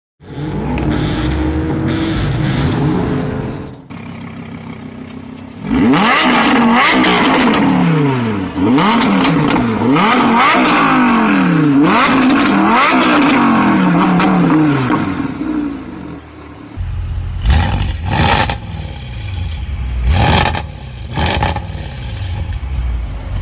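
Audi performance car engine accelerating hard at full throttle, its pitch climbing and dropping back at each upshift about once a second through a long pull. Before this it revs steadily; near the end a lower rumble is broken by several sharp bangs.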